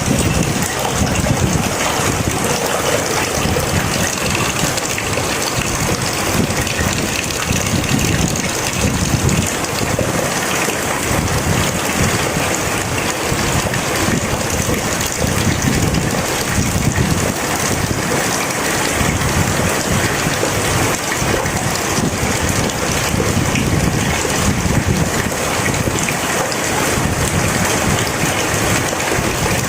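Heavy rain falling steadily, a dense even hiss with uneven low surges underneath.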